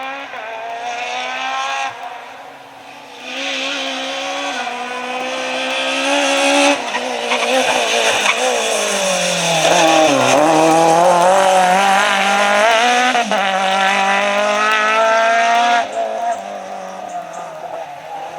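Rally car engines at full throttle, revving up through gear changes, dropping in pitch under braking about eight seconds in and climbing again hard after about ten seconds, with abrupt jumps between different cars.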